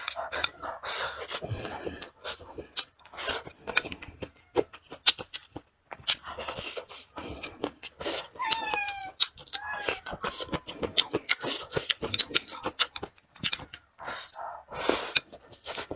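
Close-miked eating sounds: chewing and lip smacking on chicken and vegetables, with many short wet clicks. A cat meows twice about halfway through.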